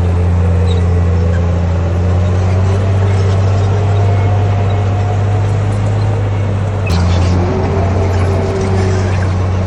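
Komatsu D58P crawler bulldozer's diesel engine running steadily, with a faint wavering whine above it. A single sharp click sounds about seven seconds in.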